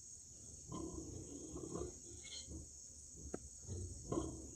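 Faint irregular pig grunts in two short spells, over a steady high-pitched chirring of insects.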